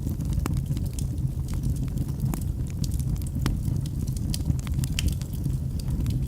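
Fire burning in a fireplace, crackling with frequent, irregular sharp pops over a steady low rumble.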